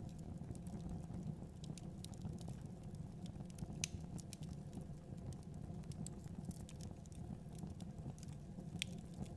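Fireplace fire crackling: a steady low rumble of flames with scattered sharp pops and snaps, two louder pops about four seconds in and near the end.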